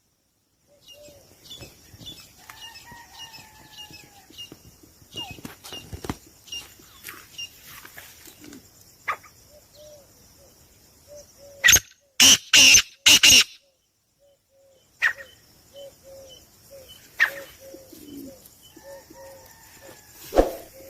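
Many small caged birds chirping and calling together, with short repeated low notes under the high chirps and a few loud noisy bursts about twelve seconds in.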